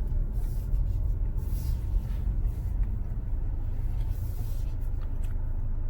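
Low steady rumble of a car running, heard from inside the cabin, with a couple of faint short hisses.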